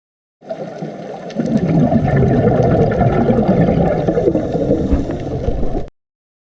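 A low-pitched animal call, about five seconds long. It starts under a second in, gets louder about a second later and cuts off abruptly near the end.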